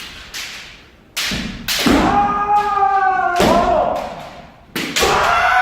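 Kendo sparring: sharp cracks and thuds of bamboo shinai strikes and stamping feet on a wooden floor, several times, with a long held kiai shout about two seconds in and another starting near the end.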